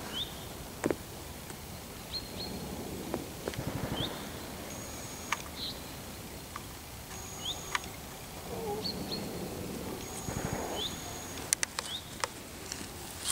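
Outdoor pasture ambience: a bird repeats short rising chirps every second or two, with a few thin held high whistles, over a low rustle of wind. A few sharp clicks come near the end.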